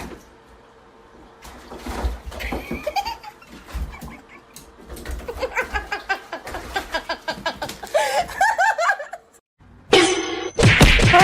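People laughing hard in rapid runs of laughter that build over several seconds, then break off shortly before the end.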